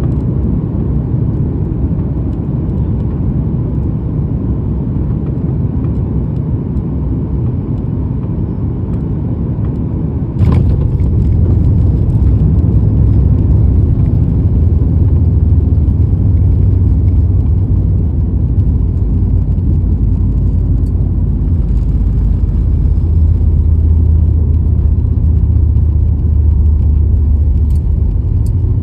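Steady low rumble of an airliner during landing. About ten seconds in a knock comes, and the rumble suddenly jumps louder and deeper and stays so.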